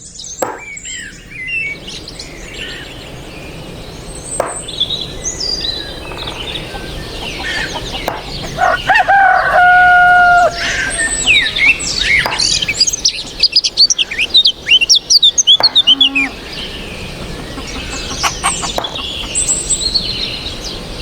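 A rooster crows once, a long held call about nine seconds in, while small birds chirp around it, with a quick run of falling chirps a few seconds later.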